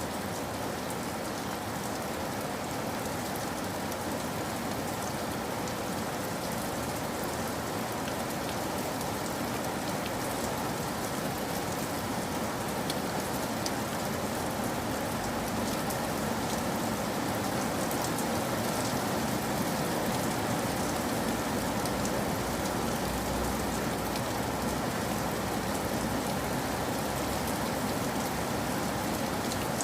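Steady heavy rain falling on a surface, an even hiss with many fine drop ticks, growing slightly louder about halfway through.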